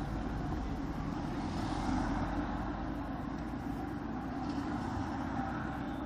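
Yamaha XTZ 125 motorcycle's single-cylinder four-stroke engine running, with steady road noise and no sudden changes.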